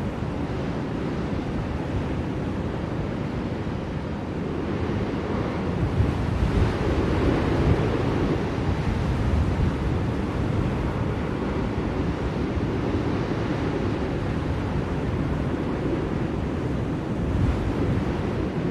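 Blizzard wind blowing steadily as a deep, rushing noise, swelling into a stronger gust about seven seconds in.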